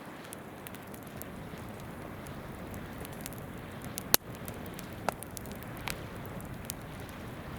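Wood campfire crackling, with scattered sharp pops, one loud pop about four seconds in, over the steady rush of a babbling river.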